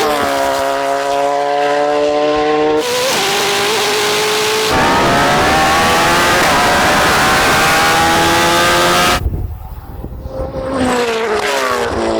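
Hypercar and superbike engines at full throttle during a drag race, their pitch climbing steadily through the revs. The sound breaks off abruptly twice, then a fresh rising run starts near the end.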